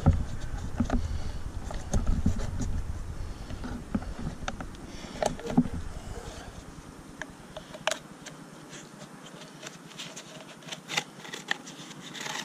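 Scattered metallic clicks and scrapes as a small section of a used Bosch Distance Plus oil filter's steel canister is cut open, with a low rumble that stops about seven seconds in.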